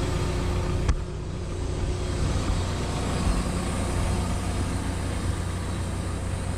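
Cat 314E excavator's diesel engine running steadily, with a single sharp click about a second in.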